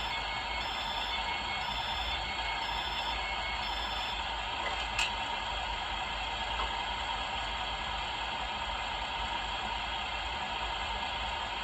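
DCC sound from a Hornby Class 800 model train: a steady running hum with alternating electronic beeps during the first four seconds, and a single click about five seconds in.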